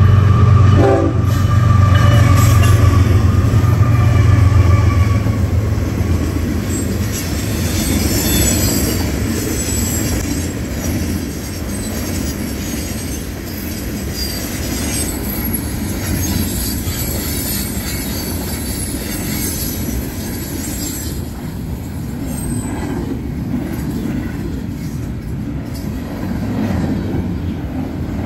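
A diesel freight locomotive passes close by, with a loud low engine rumble for the first few seconds. A long string of freight cars then rolls past with steady wheel-on-rail noise and some high wheel squeal.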